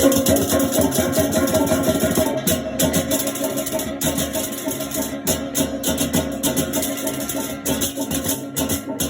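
Balinese baleganjur gamelan playing: fast, dense clashing of cengceng cymbals over drums and steady pitched gong tones, with a few brief breaks in the cymbal shimmer.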